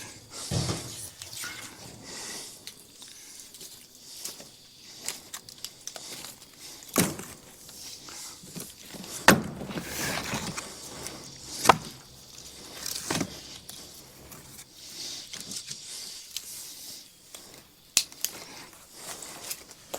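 Scattered hollow knocks of split firewood pieces clunking against one another as they are handled and tossed onto a pile, with about five sharper knocks among softer handling noises.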